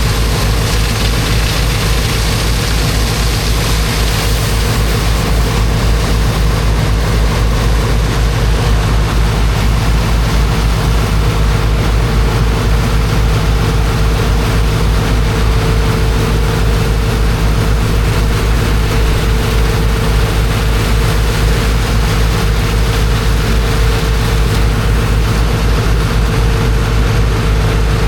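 Heavy engine driving a high-pressure water pump, running steadily with a fast, even low beat and a constant tone. A continuous hiss of rushing water runs over it, a little brighter in the first few seconds.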